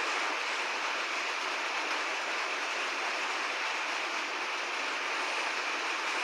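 Steady rain falling, a continuous even hiss with no change in strength.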